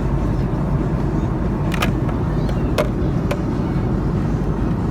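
Steady cabin roar of an Airbus A310-304 airliner in flight, with three short sharp clicks near the middle.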